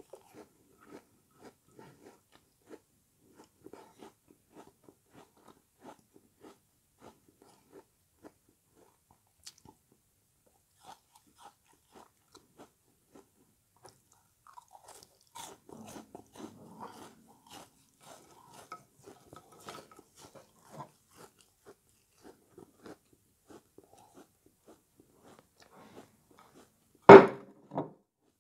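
Close-up chewing of a frozen lemony sponge: soft crunches and mouth clicks come about twice a second, with a denser spell of crunching about halfway through and one much louder sharp crunch near the end.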